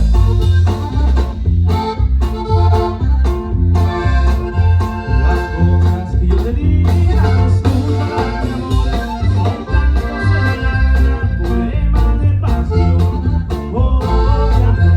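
Live norteño band playing: accordion carrying the melody over electric bass, with drums keeping a steady beat.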